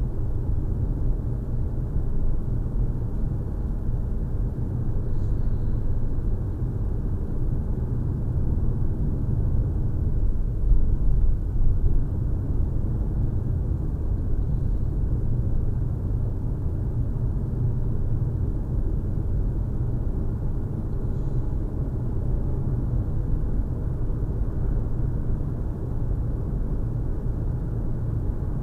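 A steady low rumble with no breaks, swelling a little about ten seconds in.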